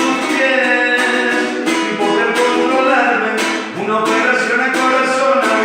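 Music: a song accompaniment of strummed acoustic guitar, chords struck in a steady rhythm about every three-quarters of a second.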